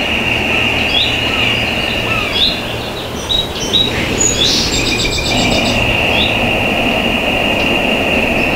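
Small birds chirping, short calls about once a second with one rapid trill about halfway through. Under them run a steady high-pitched whine and a low rumble.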